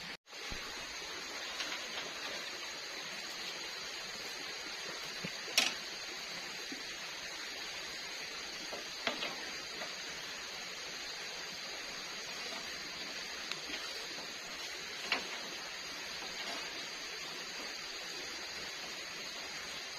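Steady forest ambience: an even hiss with a faint high steady tone, broken by a few sharp clicks, the loudest about six seconds in.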